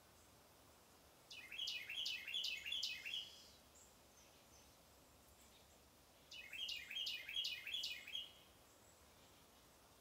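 A songbird singing two phrases of quickly repeated notes, one about a second in and another about six seconds in, over a faint steady hum of distant traffic.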